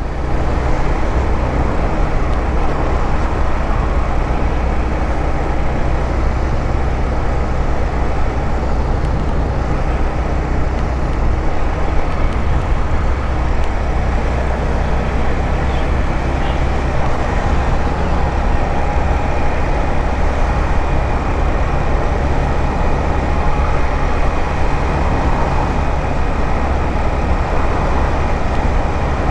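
A 150cc motorcycle riding along the road at a steady pace: a continuous loud rumble of engine and riding noise, heaviest in the low end and unchanging.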